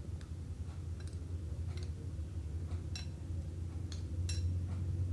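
A spoon clicks lightly and irregularly against a bowl while minced chicken filling is stirred, over a steady low hum.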